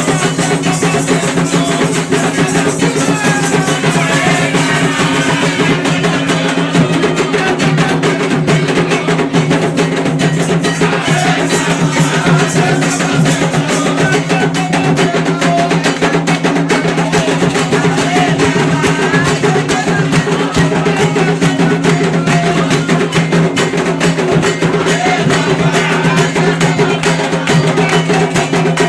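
Candomblé ritual music: fast, steady hand drumming on atabaque drums with a struck percussion part keeping time, played without a break.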